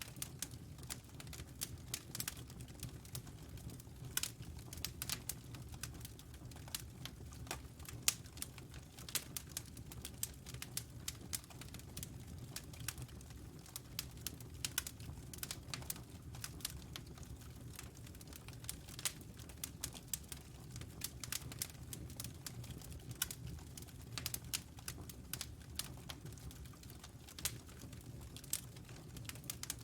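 Wood fire crackling in a fireplace, with frequent irregular sharp pops and snaps over a steady low rumble from the flames.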